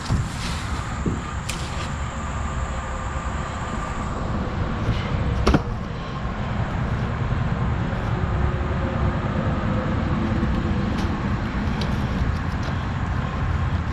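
Gator utility vehicle's engine running steadily as it drives with a loaded utility trailer, with a few sharp knocks and clanks, the loudest about five and a half seconds in.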